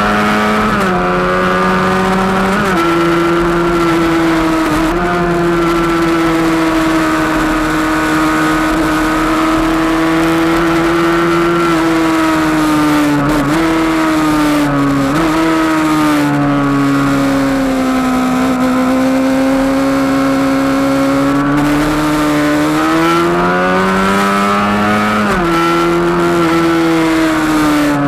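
Kawasaki ZX-6R 636 inline-four engine running hard at high revs on track, with wind rush over the front-mounted camera. The engine note holds steady along the straights and falls and climbs again several times as the rider shifts and brakes into corners.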